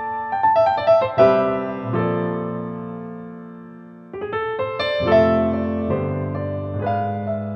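Slow, gentle piano music: a few notes and chords struck, then left to ring and fade, with a fresh group of notes about four seconds in.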